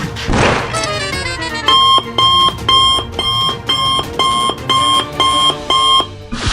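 Repeated electronic alarm beeping, about two beeps a second, stopping shortly before the end; a brief whoosh comes before it.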